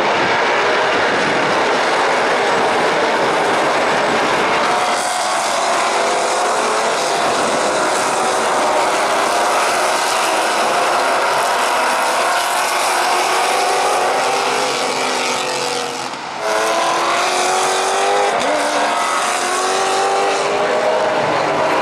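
Maserati GranTurismo MC Trofeo race cars' V8 engines running hard at racing speed, several cars heard together. Their engine notes rise and fall with throttle and gear changes. The sound drops briefly about sixteen seconds in.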